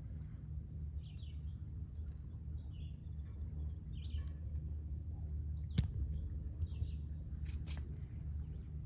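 Small birds calling outdoors: scattered short chirps, then a quick run of about seven high, repeated notes around the middle, over a low steady rumble. A single sharp click comes about six seconds in.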